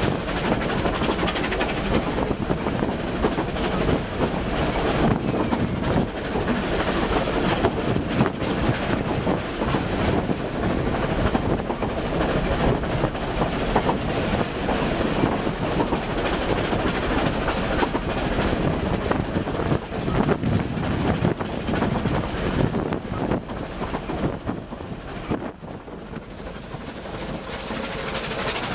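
Narrow-gauge steam train running along the track, its wheels clicking steadily over the rail joints; the sound dips briefly near the end and then picks up again.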